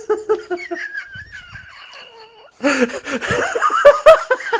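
People laughing: bursts of laughter early on, a short lull, then louder, choppier laughter from about halfway in.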